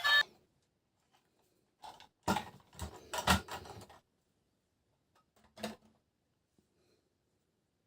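Background music cuts off at the start, then a short cluster of knocks and clatter from objects being handled, followed by one more knock a little later.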